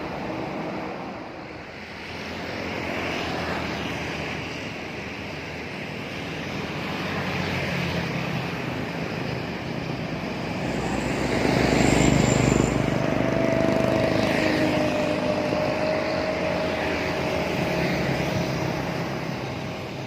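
Road traffic: a continuous rumble of passing vehicles that swells and fades, loudest about twelve seconds in, with a faint engine drone trailing off after it.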